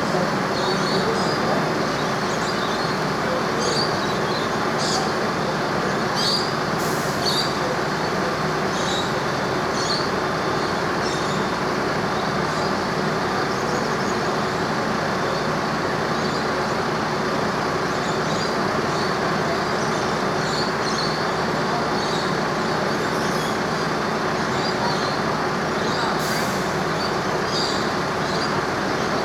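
A steady engine rumble with a faint steady hum, unchanging in level, with short high chirps scattered over it.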